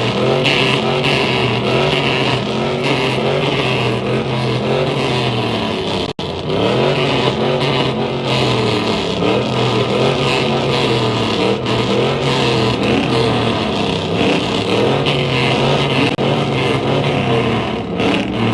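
A vehicle engine revving hard, its pitch rising and falling over and over, with a brief drop-out about six seconds in.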